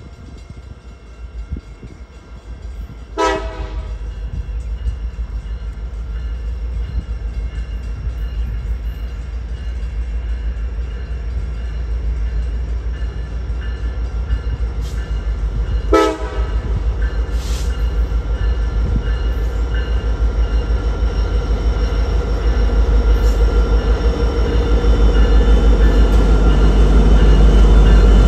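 Train approaching, its low rumble growing steadily louder, with two short horn toots, one about three seconds in and one about sixteen seconds in.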